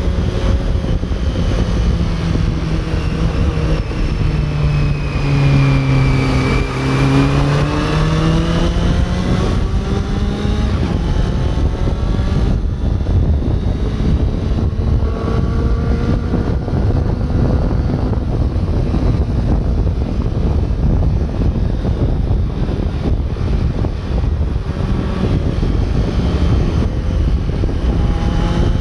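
Honda CB400 Super Four's inline-four engine while riding, under a heavy rush of wind and road noise. The engine pitch falls to a low point about six seconds in, then climbs again as it pulls back up, with more rises in pitch midway and near the end.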